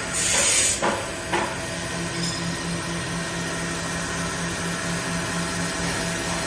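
CNC wood lathe running: sharp knocks and a short hiss in the first second or so, then a steady machine hum with a low tone that pulses about two to three times a second.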